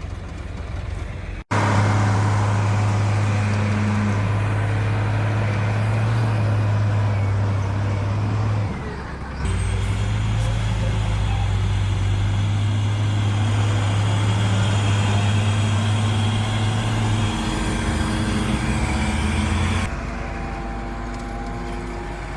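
Heavy diesel engine of a bulldozer running hard with a steady low drone. It cuts in abruptly about a second and a half in, dips briefly midway, and falls back to a quieter engine sound near the end.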